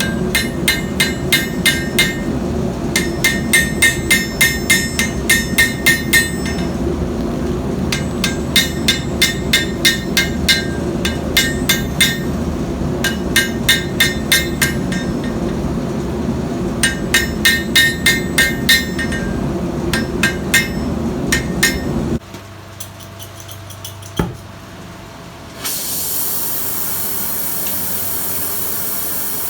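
A hammer striking steel on an anvil in runs of quick, ringing blows, about three or four a second, with short pauses between runs, over a steady low hum. The hum cuts off suddenly near the end, one more knock follows, and then a steady hiss begins.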